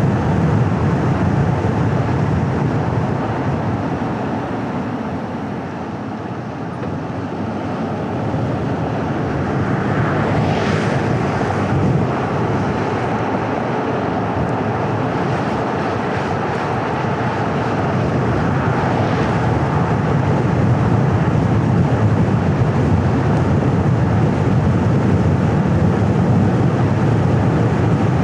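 A car driving along a road: steady road and engine noise that eases off around six seconds in and builds again, with a brief swell of higher hiss around ten seconds in.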